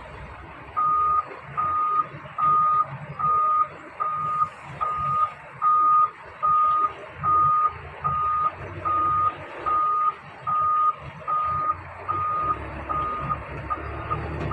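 Vehicle reversing alarm beeping a single steady tone, about one beep every 0.8 s, starting about a second in, over a heavy vehicle's engine running, which grows louder near the end.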